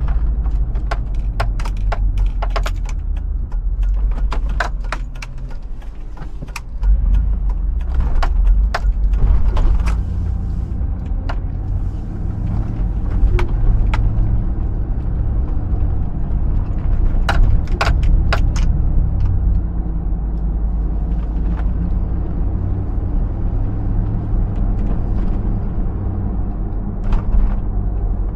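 Hummer H2's 6.0 L V8 running as the SUV is driven, a steady low rumble with frequent sharp clicks and rattles. The engine eases off for a few seconds, then grows suddenly louder about seven seconds in as it is put under load again.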